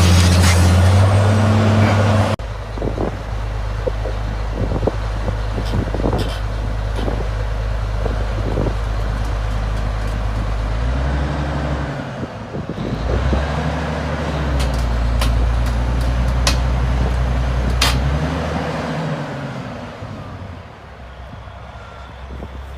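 Heavy diesel engine running with scattered knocks and clanks, revving up and down in several swells in the middle, then settling lower and quieter near the end.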